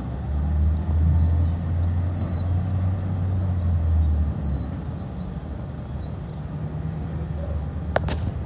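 Garbage truck engine running with a low, steady drone that is strongest over the first few seconds and then eases off. Faint bird chirps come twice, and there is a sharp click near the end.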